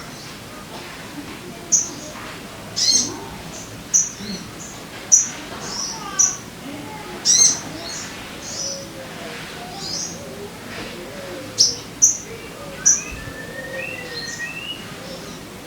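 Sogon bird calling: about a dozen short, sharp, high chirps at uneven intervals, with fainter lower whistled notes between them.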